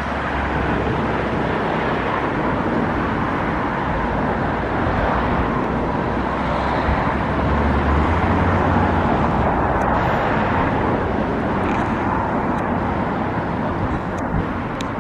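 Steady rumble of motor traffic, swelling slightly about halfway through as a heavier vehicle passes.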